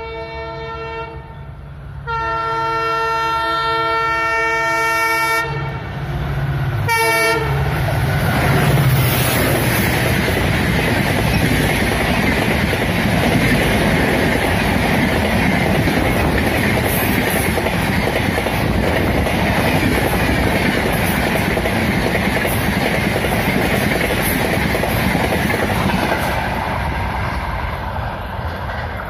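WDP4D diesel locomotive's horn gives a short blast, then a longer blast of about three seconds, then a quick series of short toots. The express train then rushes past at full speed, its wheels clattering over the rail joints, and the noise eases as it moves away near the end.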